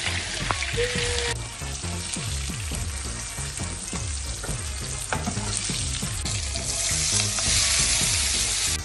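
Food frying in hot oil in a wok and being stirred with a wooden spatula. The sizzle is loud at the start, falls away about a second in, and swells again after about six seconds as chopped onions fry.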